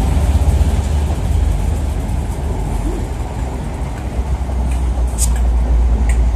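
Coaches of a Network Rail test train rolling past at speed: a steady, heavy low rumble of wheels on rail, with a few sharp clicks about five and six seconds in.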